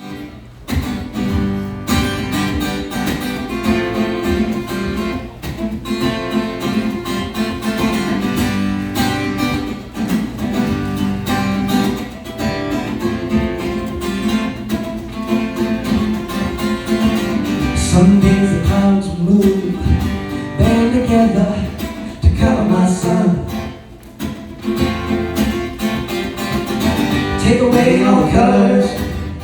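Acoustic band music: strummed acoustic guitar playing a song's intro, with a melody line coming in about two-thirds of the way through.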